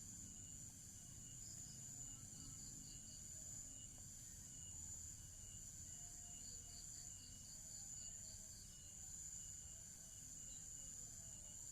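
Faint insect chorus: a steady high-pitched drone with runs of quick, evenly spaced high chirps.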